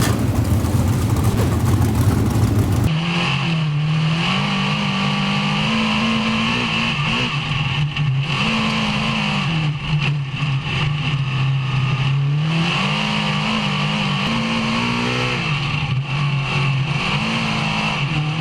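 Big-block dirt modified race car engine at racing speed, its pitch climbing and dropping every few seconds as it accelerates and lifts off. For about the first three seconds a denser, rougher roar covers it, then it cuts to the single engine.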